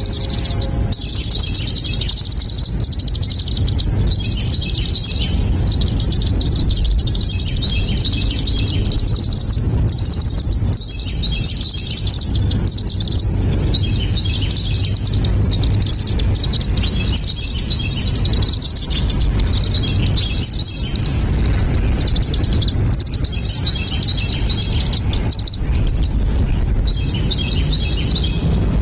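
Small birds chirping rapidly and high-pitched, almost continuously, with short lulls, over a steady low rumble.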